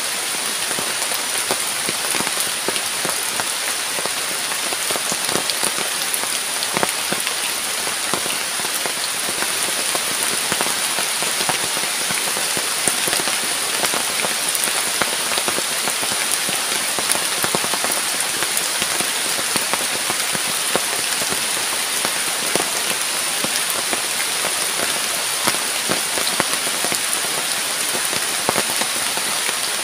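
Heavy rain falling on a tent fly and forest leaves: a dense, steady patter with scattered louder drop hits, over a steady high hiss.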